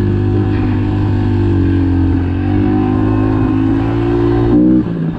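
Pit bike's small single-cylinder four-stroke engine running at a steady throttle while being ridden, its pitch wavering slightly. Near the end the pitch dips briefly as the throttle is rolled off, then picks up again.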